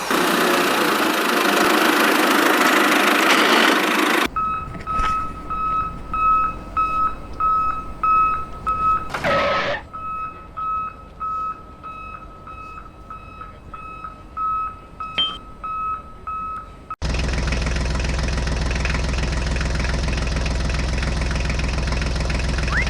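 Repeated electronic beeping, about two beeps a second, like a reversing alarm. It follows a few seconds of loud hiss, and near the end a small motor starts suddenly and runs with a steady hum.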